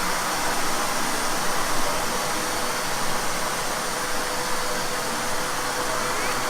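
OTTO wet-and-dry vacuum cleaner running steadily: an even rushing hiss of air with a constant whine from the motor.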